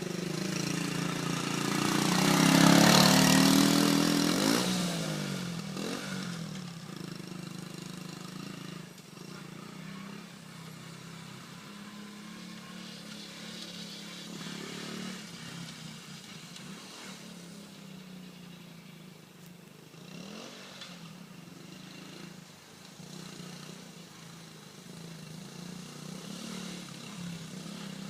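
Small single-cylinder four-stroke engine of a 1977 Honda CT90 Trail 90 running as the bike is ridden. It is loudest about three seconds in, with its pitch rising and falling, then runs fainter and steadier for the rest.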